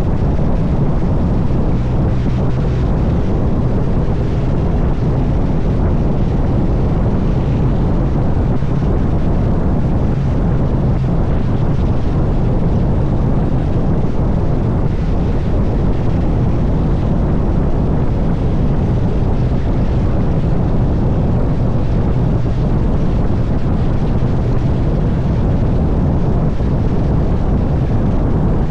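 Wind rushing over the microphone of a moving motorcycle, with the engine's steady low hum under it.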